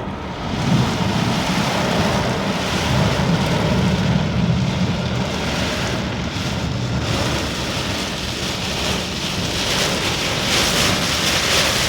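Heavy rain on a moving car, heard from inside, mixed with tyre and road noise; the hiss of the rain grows louder near the end.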